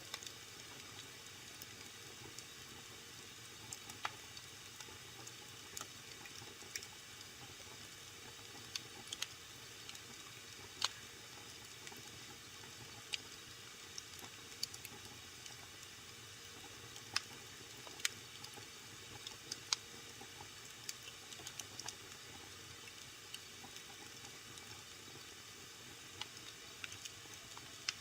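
Wood fire burning in a fireplace: a faint steady hiss with irregular sharp pops and crackles, a few louder snaps among them.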